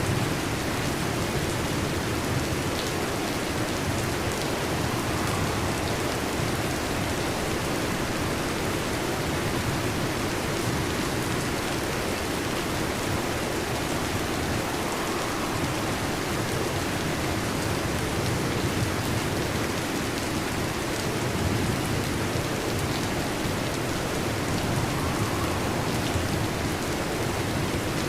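Steady rain falling, an even hiss of many drops with a few sharper individual drop hits standing out now and then.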